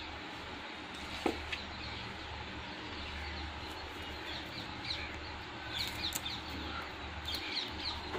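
Birds chirping in two quick series of short, high calls over a steady background hiss, with one light tap about a second in.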